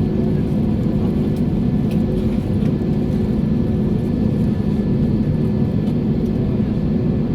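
Steady low rumble inside the cabin of an Airbus A321 rolling on the ground after landing, with a faint steady hum over it.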